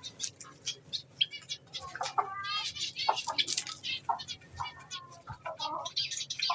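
Zebra finches calling: a busy, continuous run of short high chirps and nasal, buzzy beeps.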